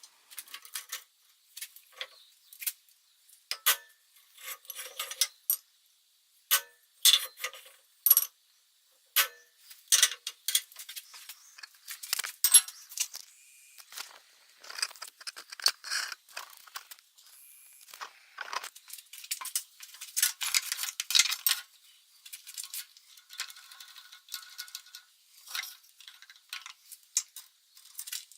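Small metal pieces clinking and clicking as they are handled and set down: irregular sharp taps and short jingles with brief pauses between them.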